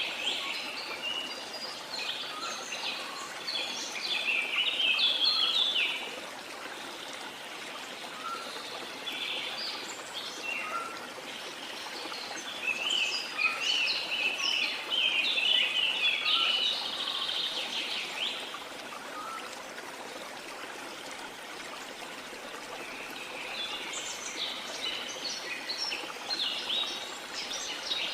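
Small birds chirping and twittering in clusters that come and go, over a steady rush of sea water.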